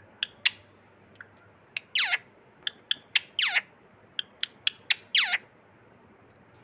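Pet parrot calling: a series of quick sharp chirps mixed with three longer calls that slide steeply down in pitch.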